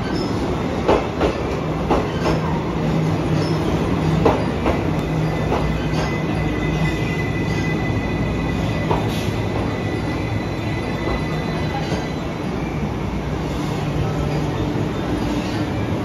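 JR West 283 series electric train rolling slowly into a station platform. Irregular clacks of the wheels over rail joints come mostly in the first few seconds, over a steady rumble and hum. A thin high squeal runs through the middle as the train slows toward its stop.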